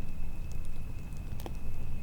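Campfire crackling, with scattered sharp pops, the loudest about one and a half seconds in, over a steady low wind rumble and a thin steady high tone.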